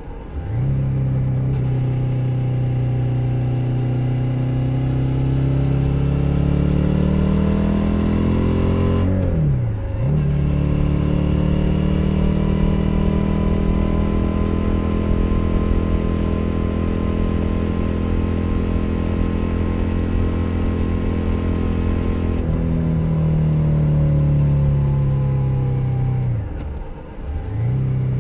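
Stock 2021 Suzuki SV 650 90-degree V-twin under way: the engine pulls up in pitch and is cut briefly by upshifts at the start and about nine seconds in. It then holds a steady cruise, eases off and falls in pitch a little after twenty seconds, with another brief gear change near the end.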